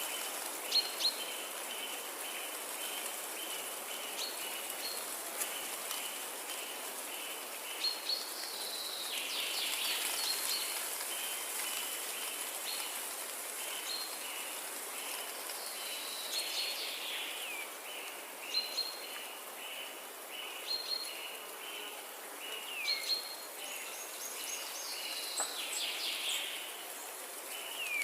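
Forest ambience: a steady hiss under an insect chirping in an even pulse, about two to three chirps a second. Birds call over it with short high notes and several downward-sliding whistles, mostly in the second half.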